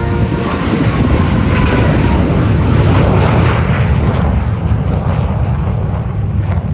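Military jet roaring past low at an air show, the engine noise swelling to its loudest about three seconds in and then easing off slightly.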